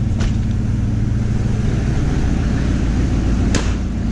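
Truck engine idling steadily as it warms up after a cold start. Two short knocks cut across it, a faint one just after the start and a sharper one about three and a half seconds in.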